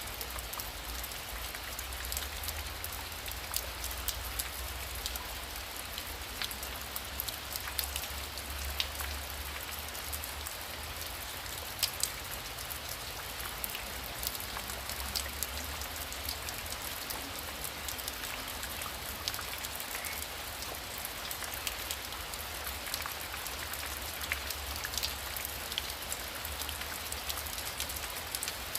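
Heavy rain falling steadily, with many sharp individual drop hits and a low rumble underneath.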